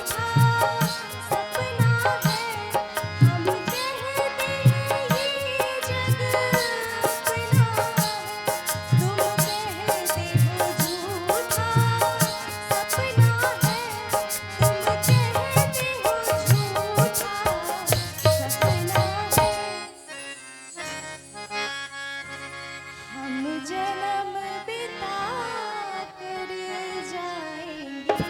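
Hindustani light-classical song with a female voice, harmonium, and a steady dholak and tabla beat. About two-thirds of the way through the drums drop out, leaving harmonium and voice, and the beat comes back in at the end.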